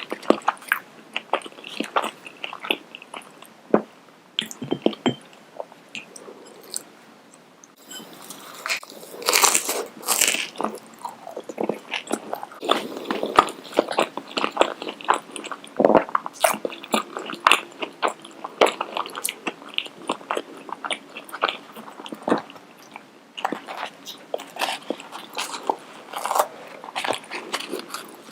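Close-miked eating: repeated crunchy bites and chewing, going quieter for a few seconds about a fifth of the way in, then loud crunching again.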